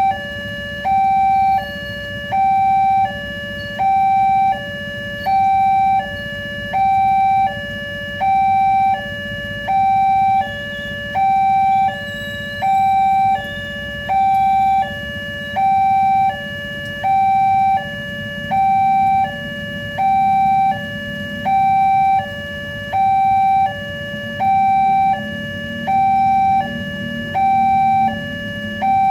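Railway level-crossing warning alarm sounding: an electronic two-note signal switching steadily back and forth between a higher and a lower tone, one full cycle about every second and a half, signalling that a train is approaching. A low rumble underneath grows stronger in the latter half.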